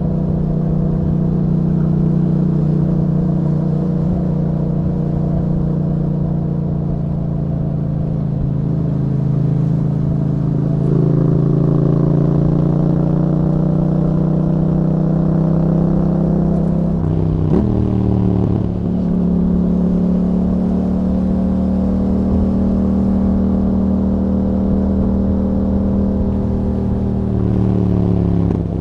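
A 2021 Yamaha MT-07's 689 cc parallel-twin engine running through an Akrapovic exhaust with dB killers, heard while riding. The revs ease off slowly, pick up again, and dip and jump sharply twice, about two-thirds of the way through and near the end, as gears are changed.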